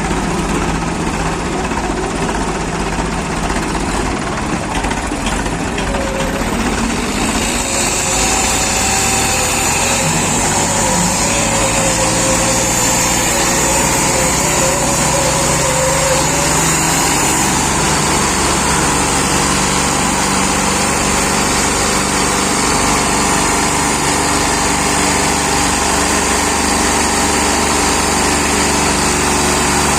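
Swaraj 744 tractor's three-cylinder diesel engine running continuously at a steady pitch. Its sound turns brighter and hissier about seven seconds in.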